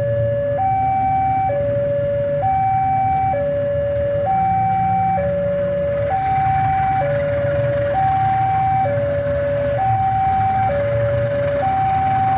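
Railway level crossing warning alarm: an electronic two-tone signal alternating evenly between a higher and a lower note, each held just under a second, warning that a train is approaching. A steady low rumble of engines runs underneath.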